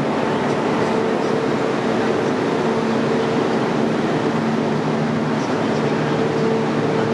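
Network Rail engineering train of DR 79-series units moving off, its engines running with a steady hum and no change in level.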